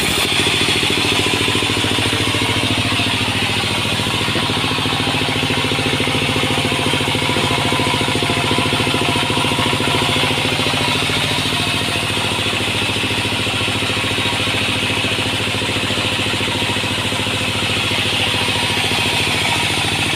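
Sawmill machinery running steadily: an engine drone at a constant pitch under a continuous mechanical noise.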